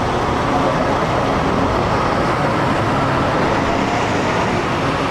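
Steady vehicle noise: engines running and road traffic, an even rumble with no breaks.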